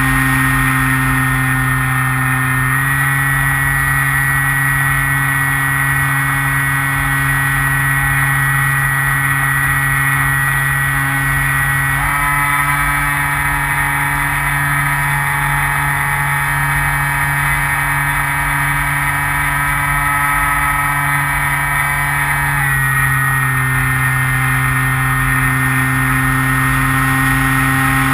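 Electric motor and pusher propeller of a Skywalker FPV model plane, heard from the on-board camera as a steady high drone. Its pitch steps up or down a few times as the throttle changes. Wind noise from flight runs underneath.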